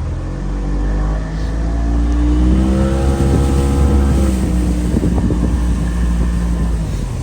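Bass boat's outboard motor speeding up, its pitch climbing over the first two seconds or so, then running at speed and easing off a little near the end, with rushing wind and water noise.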